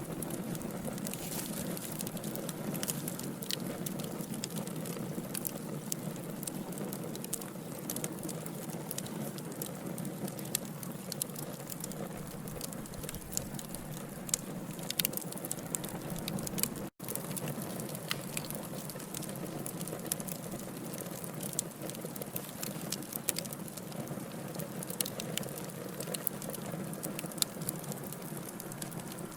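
Wood fire of burning logs crackling, with frequent sharp pops and snaps over a steady low rush of flame. There is a split-second cut-out about halfway through.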